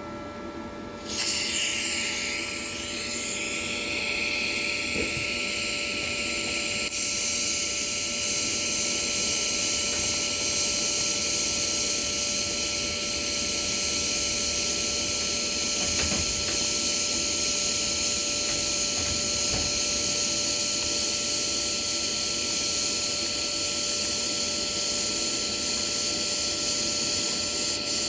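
TIG welding arc from a Toolion MIG-180 Pro running a fusion weld: a steady hiss-buzz that strikes up about a second in and grows fuller and brighter about seven seconds in. A thin steady whine runs underneath.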